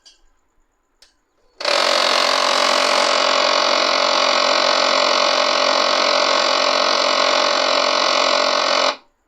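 HP LaserJet M1005 MFP laser printer making a loud, steady humming noise while it initializes after power-on. The noise starts about a second and a half in, runs for about seven seconds and cuts off suddenly. It is the abnormal humming fault that the printer shows at start-up.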